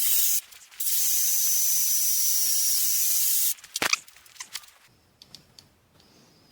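A pressurised spray hissing: a short burst, then a steady hiss of about three seconds that cuts off suddenly, followed by a single click.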